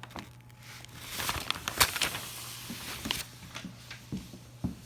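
Large sheets of paper being handled and folded: rustling and crinkling with sharp crackles, loudest just under two seconds in.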